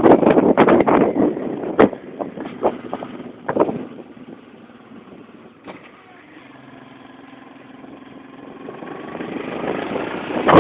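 Motorcycle ride: wind buffeting the microphone dies down after about two seconds, leaving the engine running with a steady hum. The engine and wind build up again toward the end.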